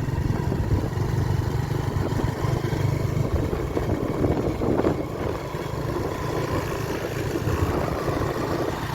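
Steady engine and road noise of a moving vehicle: a continuous low rumble under a broad rushing hiss.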